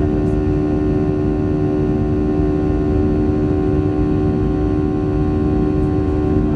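Boeing 737-700's CFM56-7B turbofan engines heard from inside the cabin: a steady low rumble with a strong, even humming drone.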